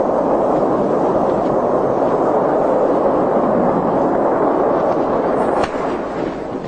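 Loud, steady rumbling roar of a rocket launch failure. It falls off sharply about five and a half seconds in.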